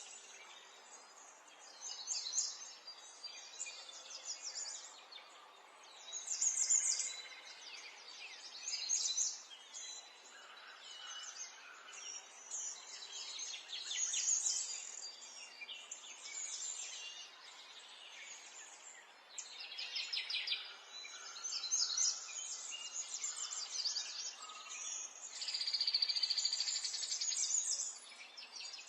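Small songbirds chirping and calling back and forth, with several rapid trills, over a faint steady background hiss.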